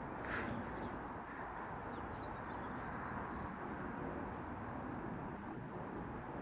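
Steady outdoor background noise in a garden, with a few short, high bird chirps about half a second and two seconds in.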